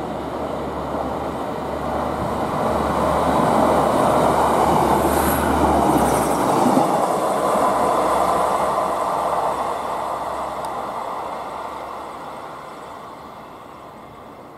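Class 156 diesel multiple unit running past on the line: wheels on the rails and its underfloor diesel engine build to a loud peak, with a brief high squeal about five seconds in, then fade steadily as the train runs away.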